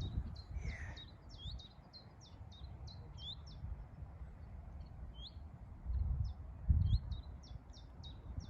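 A leaf warbler (chiffchaff or willow warbler) singing a long run of short, evenly spaced high notes, about three a second, that thins out midway and picks up again near the end. A couple of low thumps come about six and seven seconds in.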